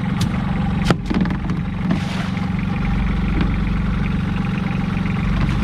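A small fishing boat's engine running steadily, with a sharp knock about a second in.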